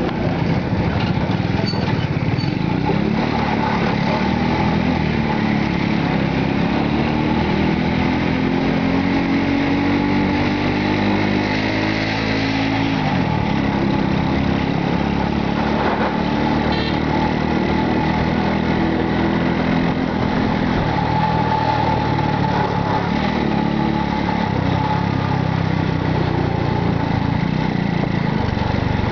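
Motorcycle taxi's small engine running under way, its pitch climbing as it speeds up and dropping as it eases off, several times over.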